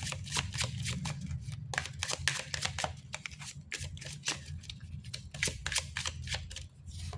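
Oracle cards being shuffled and handled: a run of quick, irregular card flicks and snaps over a low steady hum.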